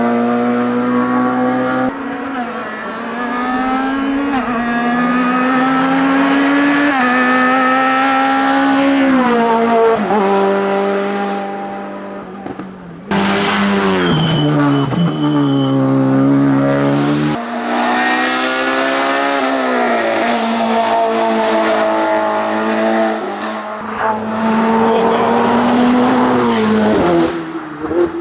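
Race car engines at full throttle, revving up through the gears: the pitch climbs, then drops at each gearchange. The sound changes abruptly about thirteen seconds in and again a few seconds later, as one car gives way to another.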